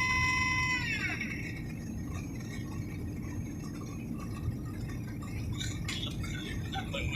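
Steady low rumble of airliner cabin noise from the engines and airflow. A high steady tone with overtones slides down in pitch and dies away about a second in, and a few faint clicks follow.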